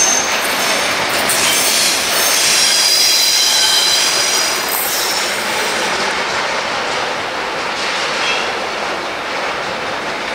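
Freight train of hopper wagons rolling away, its wheels squealing in several high tones over a steady rolling rush. The squeal is strongest in the first half, and the whole sound slowly fades as the train recedes.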